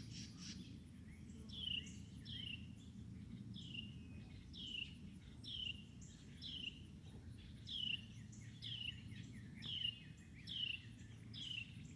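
A songbird singing a long series of repeated down-slurred whistled notes, each one falling in pitch, over a steady low background rumble.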